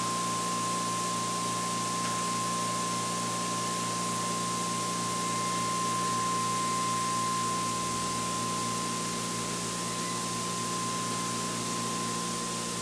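Electric motor driving a generator on a test bench, running steadily: a constant hum with a steady whine over it.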